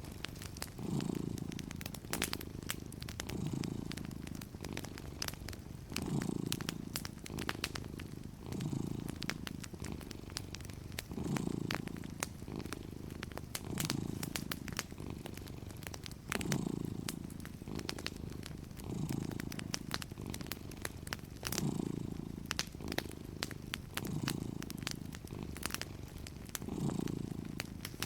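Domestic cat purring, swelling and fading with its breathing about every two and a half seconds, with scattered sharp pops and crackles from a wood fire.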